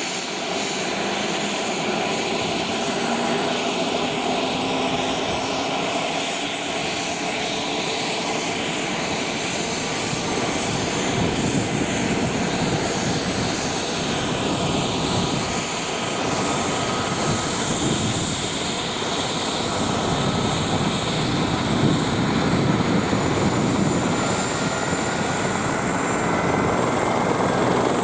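Eurocopter EC-145 helicopter's twin turbine engines and rotor running as a steady drone that grows slowly louder, with a thin whine rising gently in pitch over the last several seconds.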